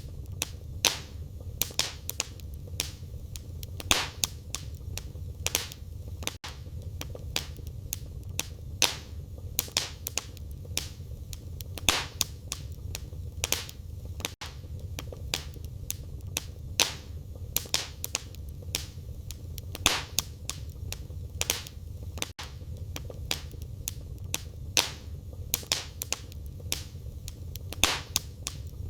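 Firewood burning in a fireplace: a steady low rumble of the flames with constant crackling and sharp pops every second or two.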